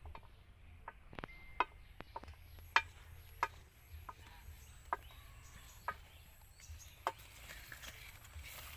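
Irregular sharp clicks and snaps, roughly one a second, from java plum fruits being picked off their stalks by hand.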